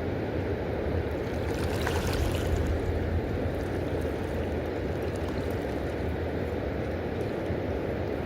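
Steady low rush of the Ohio River's water flowing below a dam, with a brief brighter hiss about two seconds in.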